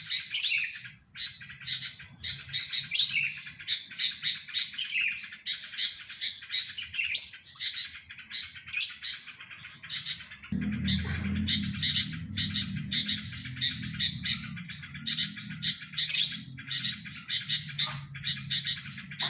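Sooty-headed bulbul singing: a steady run of short, quick chirps and warbled phrases, two or three a second. A low hum joins in about halfway through and runs on under the song.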